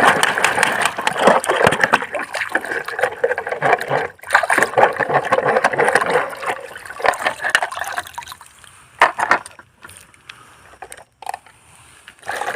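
Water splashing and sloshing while plastic toy vehicles are washed in a river, with scattered knocks of the toys. It quietens about eight seconds in, leaving only a few splashes.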